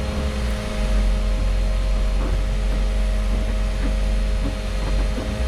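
Converted school bus's engine running, heard from inside the cabin as a steady deep rumble with a constant hum over it.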